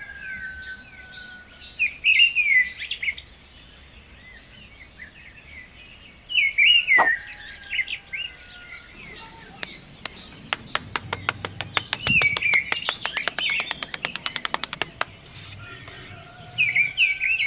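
Songbirds chirping and singing in repeated bursts of short calls. Midway, a rapid run of sharp clicks, about five a second, lasts for roughly five seconds.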